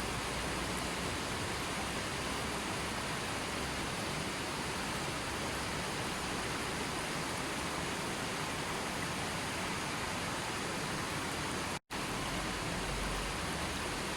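Steady, even rushing of water, a continuous hiss with no distinct events; it cuts out completely for a split second near the end.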